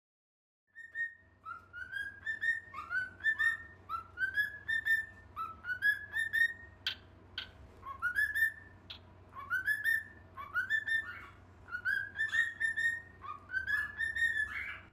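Parrot whistling a run of short upward-sliding notes, about two a second, with a few sharp clicks near the middle.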